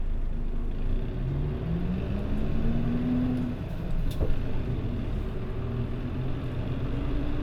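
Mitsubishi Fuso Aero Star city bus diesel engine pulling away, heard inside the bus: the engine note rises through one gear, drops at a gear change about three and a half seconds in, then climbs again in the next gear.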